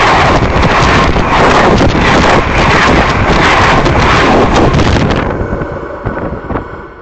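A train passing very close at speed: loud rushing noise with wind buffeting the microphone, fading away after about five seconds.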